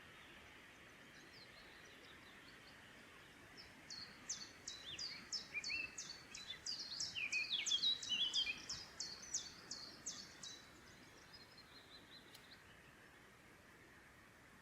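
A songbird singing a long run of quick, high notes repeated about three a second, each sweeping downward, with a few lower notes mixed in midway. It starts about four seconds in and stops about ten seconds in, over a steady forest hiss.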